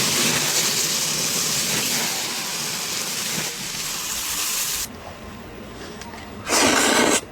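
Mountain stream water rushing over stones, a steady hiss that drops off abruptly about five seconds in. A loud burst of rushing water follows near the end.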